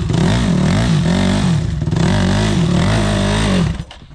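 Trail motorcycle engine revving hard, its pitch swelling up and falling back again and again about every half second, as a rider works the throttle on a difficult climb. The sound drops away abruptly near the end.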